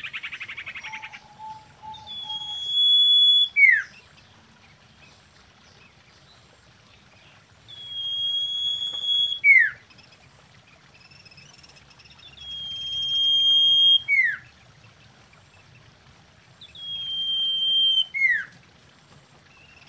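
Common iora singing: a long, steady high whistle ending in a quick falling note, the phrase given four times about four to five seconds apart. It opens with a short buzzy rattle and a lower whistled note.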